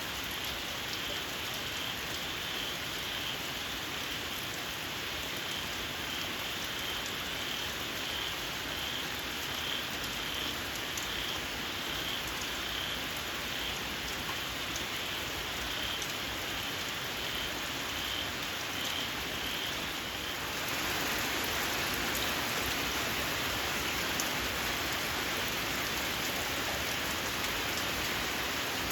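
Steady rain falling, with a small frog giving a long run of short, shrill, evenly spaced notes. The frog calls stop suddenly about two-thirds of the way through, and the rain gets louder.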